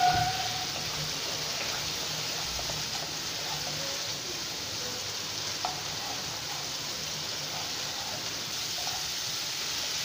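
Poppy-seed and cashew paste masala sizzling steadily as it fries in oil in a kadai, stirred with a wooden spatula.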